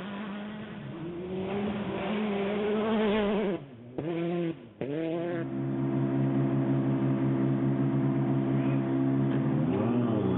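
Rally car engine heard from inside the cabin, revving up under acceleration, then dropping off suddenly about three and a half seconds in with a couple of quick blips, before settling into a steady, held engine note.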